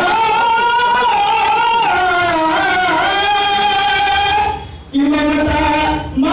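A solo voice singing long, high held notes that waver and slide in pitch, with a short break about four and a half seconds in before a lower held note.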